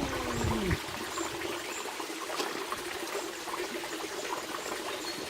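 Water trickling and running steadily at the spring that is the source of the Bhima river. A brief low sliding tone falls away and stops within the first second.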